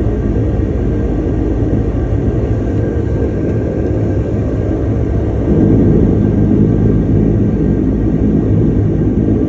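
Twin turboprop engines and propellers of a DHC-8-200 (Dash 8) heard from inside the cabin, a steady low drone that steps up in loudness about five and a half seconds in as engine power is increased.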